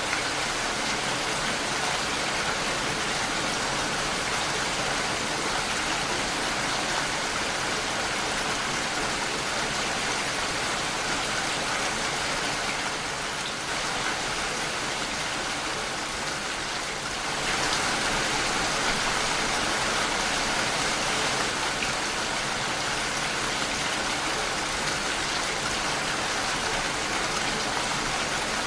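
Steady rain against a window pane, a dense, even hiss. It eases slightly for a few seconds past the middle, then falls a little heavier.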